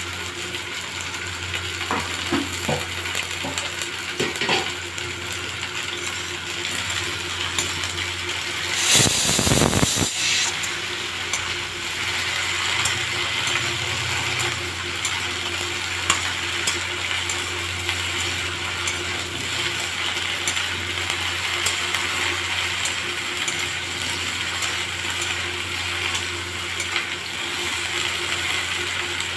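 Chopped okra and potatoes sizzling in oil in an aluminium wok, stirred with a metal spatula that clicks and scrapes against the pan. A brief loud noise about nine seconds in.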